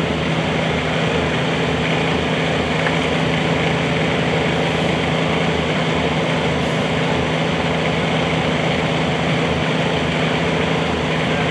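Engine of a Bobcat 320 mini excavator running steadily at constant speed.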